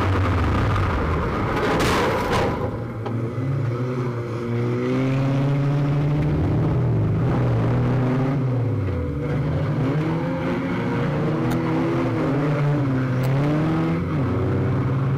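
Junior banger-racing car's engine heard from inside the cabin, revs rising and falling as the driver lifts off and accelerates round the track, with a deep drop in revs about nine seconds in before it climbs again. A brief burst of rushing noise comes about two seconds in.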